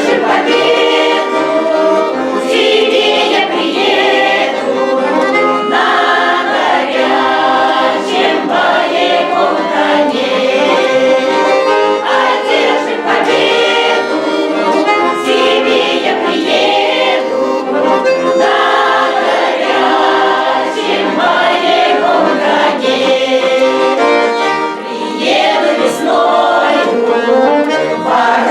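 Russian folk song ensemble singing in chorus to accordion accompaniment.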